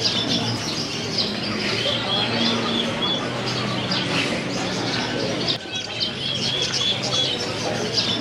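Many birds for sale chirping and calling together, with quick runs of short high chirps repeating every second or two over a steady low hum.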